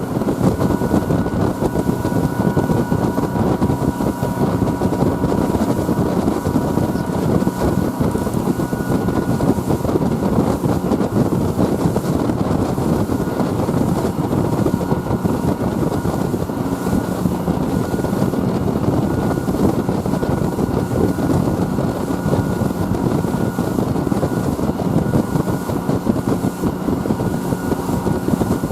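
Steady drone of a fast boat's engines running at about 30 knots, mixed with the rush of wind and water, with a faint steady whine over it.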